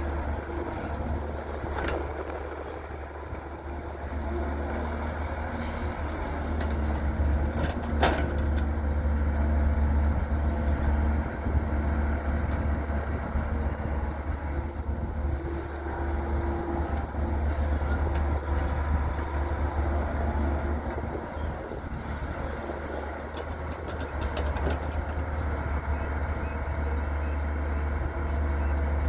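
Daewoo Solar 170W-3 excavator's diesel engine running steadily under load with a deep drone, and a sharp knock about two seconds in and another about eight seconds in.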